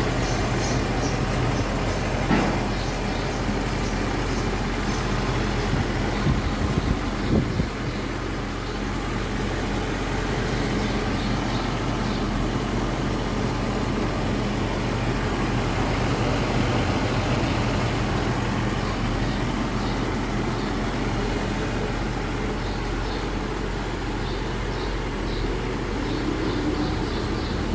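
Mercedes-Benz 560SEL (W126) V8 engine running steadily with a smooth purring, with a few brief sharper knocks about two seconds in and again around six to seven seconds in.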